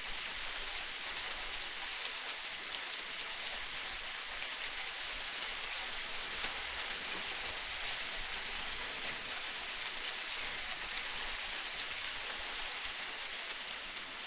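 Steady rain: an even hiss dotted with many fine drop ticks.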